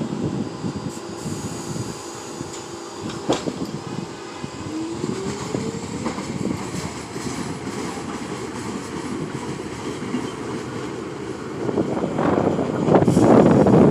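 R46 subway train running on the rails with a steady rumble. A short rising motor whine comes about five seconds in, and the wheels clatter louder near the end.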